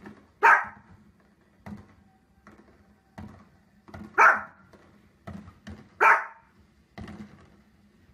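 A small dog giving three sharp, loud barks at fireworks playing on a television, with softer short pops and thuds between the barks.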